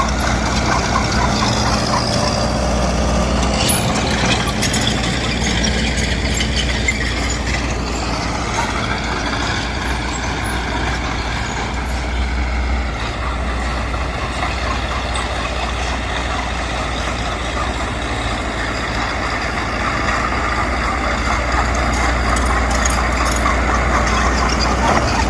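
Heavy machinery's diesel engine running steadily, its pitch dipping and rising again around the middle.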